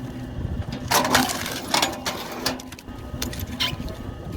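Belt-driven log splitter with a 1500 W electric motor (KM Grand SF-10) running steadily, with sharp cracks and knocks about a second in, again near two seconds, and once more in the second half as oak is split.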